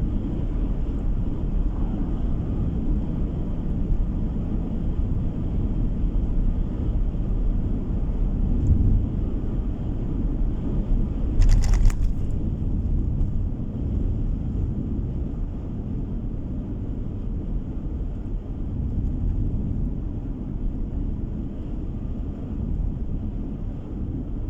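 A car driving along a road, its steady low tyre and engine rumble heard from inside. About halfway through there is one brief sharp noise.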